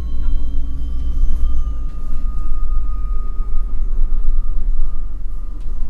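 MAN NL253 Hybrid city bus under way: a steady low rumble with a drivetrain whine that rises in pitch over the first second or so, then holds steady.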